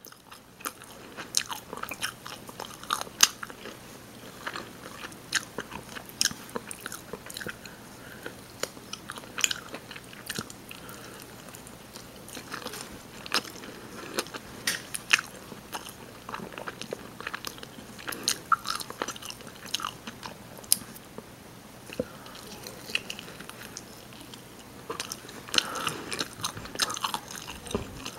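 Close-miked chewing and biting of rotisserie chicken, with sharp mouth clicks at irregular intervals.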